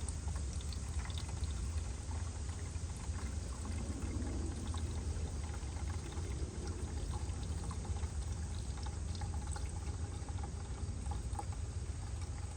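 Fresh motor oil being poured into a Jeep engine's oil filler, a steady continuous pour over a low background rumble.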